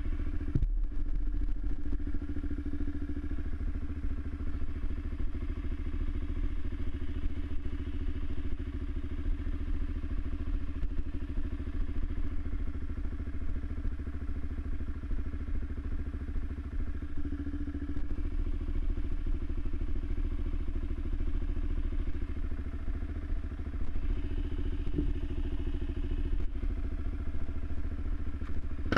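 Suzuki LTZ 400 quad's single-cylinder four-stroke engine running steadily.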